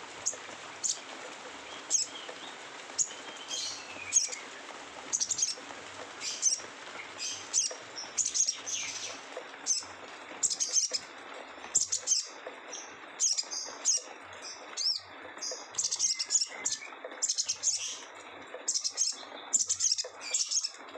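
A sogon songbird giving harsh, rapid chattering calls (what bird-keepers call 'ngeriwik kasar'). The calls come as short, sharp, high bursts about once a second at first, then closer together in the second half.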